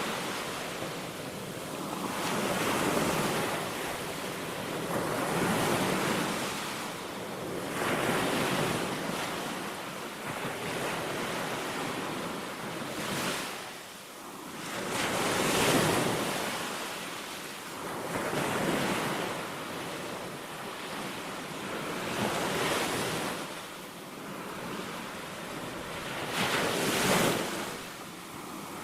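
Baltic Sea waves breaking on a sandy beach. Each wave swells and washes out, one every two to three seconds, with a louder break about halfway through and another near the end.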